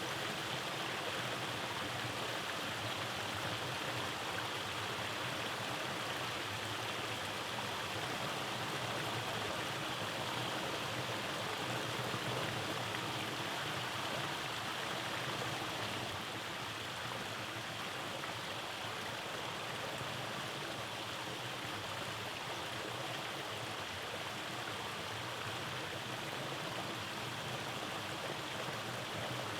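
Rainforest mountain stream running over rocky cascades: a steady, even rush of flowing water.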